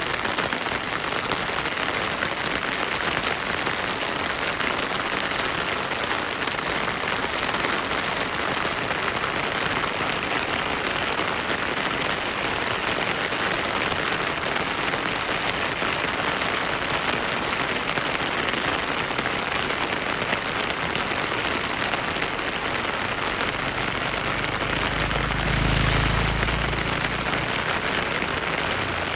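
Heavy rain falling steadily in a dense, even hiss. A brief low rumble swells and fades near the end.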